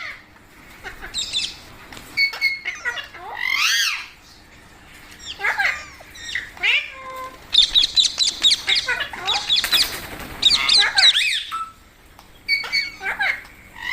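Parrot squawking in repeated harsh calls, scattered at first, then a dense run of rapid calls in the second half, with a short pause near the end before it calls again.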